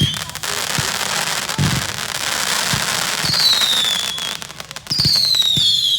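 Fireworks going off: sharp bangs followed by a long spell of dense crackling, with a high whistle that falls in pitch near the middle and another near the end.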